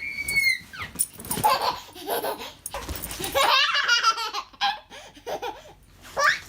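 A dog making a string of high, wavering vocal calls, mixed with people laughing.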